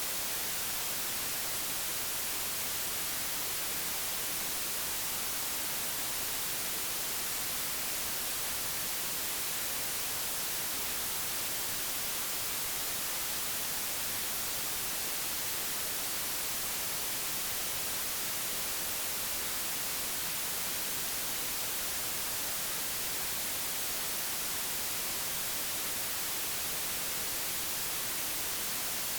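Digitally generated white noise: a steady, even hiss with no changes.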